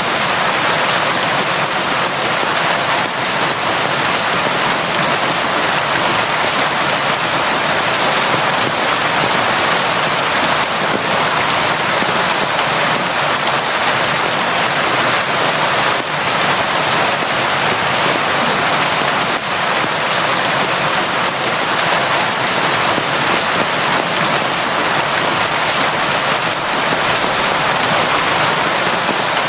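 Constant heavy rain falling steadily, a dense even hiss of drops.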